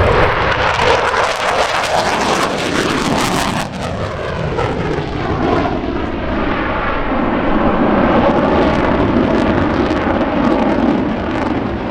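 F-15 Eagle fighter jet's twin turbofan engines, loud and steady on a low photo pass. About four seconds in the jet noise dips briefly, then sweeps downward in pitch as the jet goes past and away.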